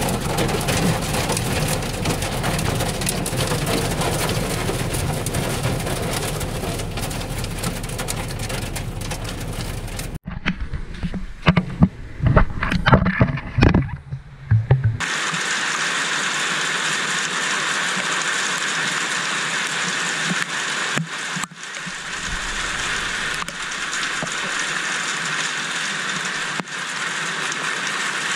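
Heavy thunderstorm downpour, a steady loud hiss of rain. About halfway through there are a few seconds of loud, irregular gusts before the steady rain returns.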